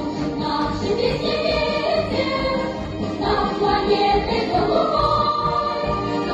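A group of children singing a song together over recorded backing music.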